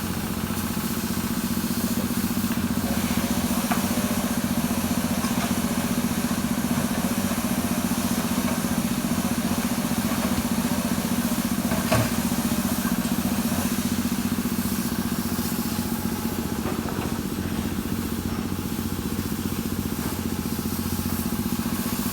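A sawmill band saw's drive engine running steadily at a constant pitch, with one sharp click about twelve seconds in.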